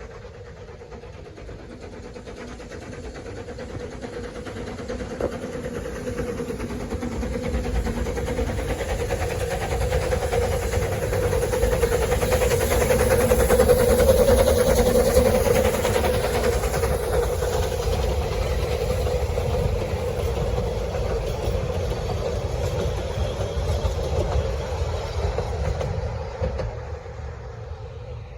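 Narrow-gauge train passing by: it grows steadily louder to a peak about halfway through, then fades away, with a steady mid-pitched hum running under the rumble.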